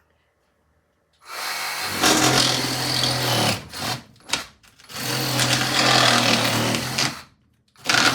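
Reciprocating saw (Sawzall) running and cutting into foam in several bursts with short pauses, starting about a second in.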